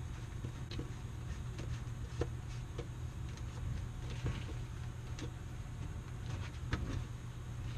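Scattered light clicks and knocks from handling hose and plastic drain fittings, over a steady low hum. The sharpest knocks come about two seconds in and again near the end.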